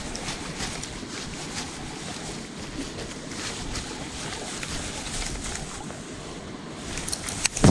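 Steady wind and water noise around a kayak on the lake, with faint scattered ticks and a sudden loud clatter of knocks at the very end.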